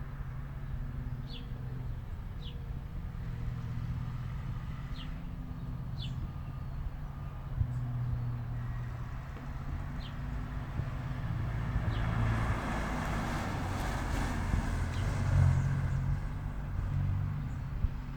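Kia Stinger with an NGM axle-back exhaust driving by: a low, deep exhaust rumble that swells as the car approaches and is loudest a few seconds past the middle, with tyre noise as it passes. Small birds chirp briefly now and then.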